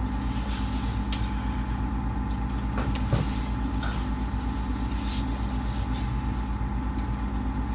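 A steady, fairly loud mechanical hum with a fast low pulsing beneath it, and a few faint brief hisses and a small knock about three seconds in.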